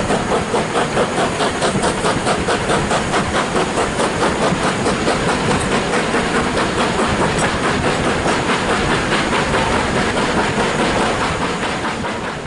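A steam-hauled train on the move, led by an LMS Black Five locomotive, with a fast, even rhythmic beat over a steady running noise. It drops away near the end.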